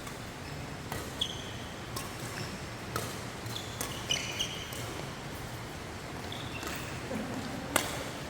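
Badminton rally: rackets striking the shuttlecock in sharp, irregular hits, the loudest near the end, with short squeaks of shoes on the court floor.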